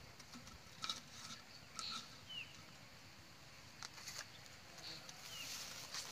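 Faint outdoor quiet broken by a few scattered light taps, with two short falling bird chirps, one about two and a half seconds in and one near the end.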